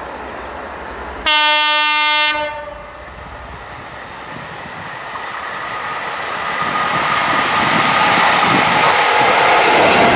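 Class 66 diesel freight locomotive sounding one horn blast, about a second long, a little over a second in. Then the engine and the wheels of the train grow steadily louder as it approaches and passes, loudest near the end.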